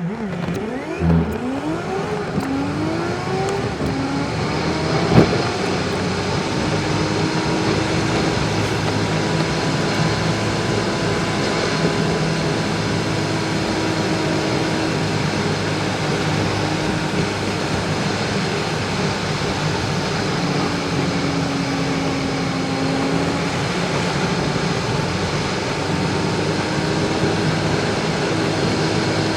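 Car engine and road noise while driving. The engine pitch climbs quickly several times in the first few seconds as it pulls away through the gears, then settles into a steady cruise. There is one sharp click about five seconds in.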